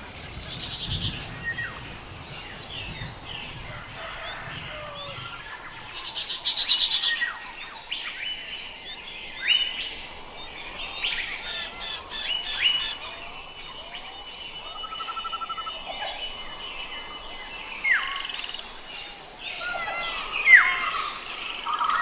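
Many birds chirping and calling together: short whistles and downward-sweeping calls overlapping, a loud rapid high trill about six seconds in, and a brief buzzy ticking call about fifteen seconds in.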